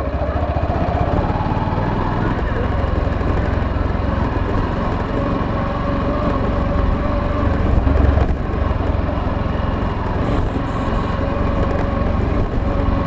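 Motorcycle engine running steadily while riding, with a low rumble underneath.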